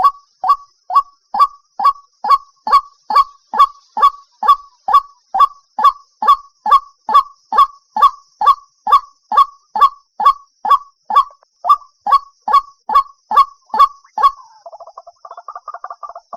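White-breasted waterhen calling: a regular series of short calls, each falling in pitch, about two a second. About 14 seconds in, it breaks into a fast, jumbled chatter.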